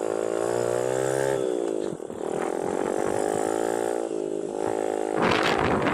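Small 110cc four-stroke single-cylinder engine of a semi-automatic mini dirt bike running under way. Its pitch drops and the sound dips briefly about two seconds in, as for an off-throttle gear change, then it climbs again and holds steady, with a short burst of noise near the end.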